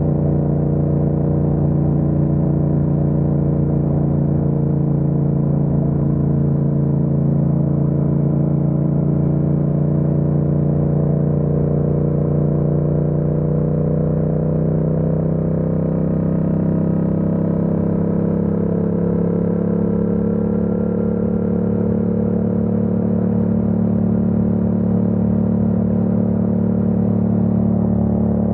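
Yamaha MT-07's parallel-twin engine running at a steady cruise, its pitch rising a little about halfway through.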